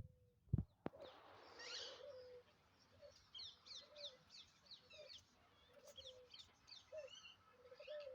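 Faint bird calls: many short, quickly falling chirps mixed with short lower notes, repeating irregularly. There is a single knock just after the start.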